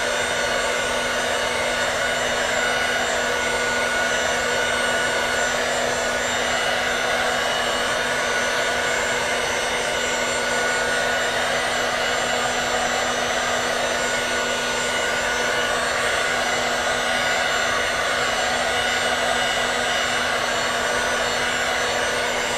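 Hand-held hair dryer running steadily, blowing hot air to warm grip tape so it softens and conforms; a constant motor hum under even air hiss.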